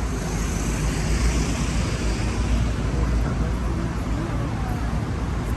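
Steady outdoor background noise: a strong low rumble under an even hiss, with no distinct events.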